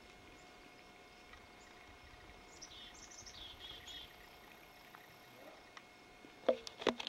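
A songbird singing a short run of high chirps a few seconds in, over a faint steady background. Near the end come a few sharp knocks and rustles, the loudest sounds here.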